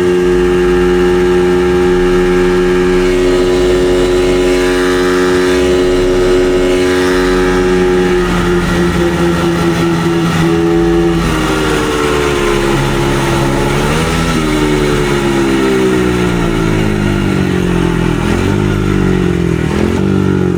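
Dirt bike engine screaming at high revs for about eight seconds, straining at top speed while it feels like it has no power behind it. The revs then drop away and wind down steadily as the bike slows, with a brief blip of throttle partway through. A low rumble of wind runs underneath.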